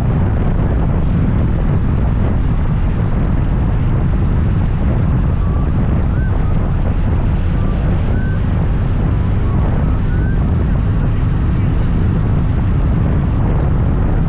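Steady wind rush on the microphone mixed with the scooter's engine and road noise while riding. A few faint short chirps sound in the middle.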